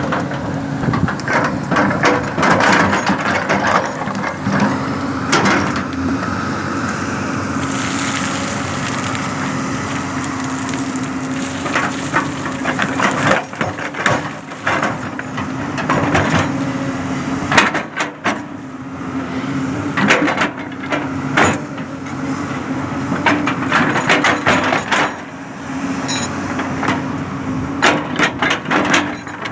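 Diesel engine of a heavy earthmoving machine running steadily under load, with repeated clanks, knocks and clattering of the bucket working earth and stone.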